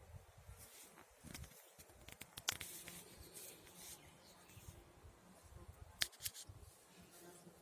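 Faint irregular rustling with scattered sharp clicks; the loudest click comes about two and a half seconds in, and a quick pair of clicks about six seconds in.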